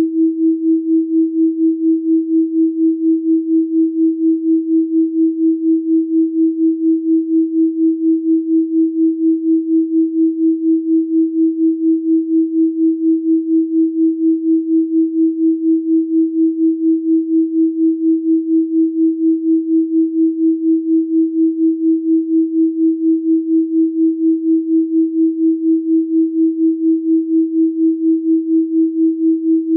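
A pure, electronically generated 324 Hz sine tone held at one pitch, its loudness pulsing evenly about three times a second.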